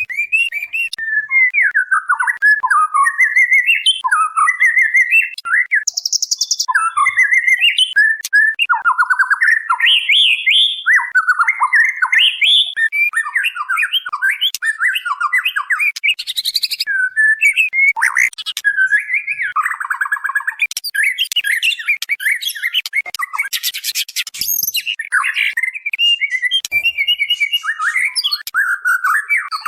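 Female white-rumped shama calling in a continuous, varied run of whistled, gliding phrases, broken now and then by short high buzzy trills. It is a lure call meant to draw a male into song.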